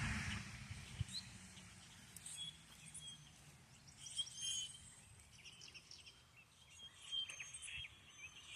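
Wild birds chirping faintly: short, high calls from several birds, scattered in small clusters with gaps between.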